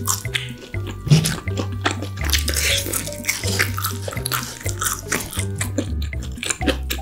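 Close-up chewing and wet mouth clicks from eating French fries and a hamburger, over background music with a steady bass line.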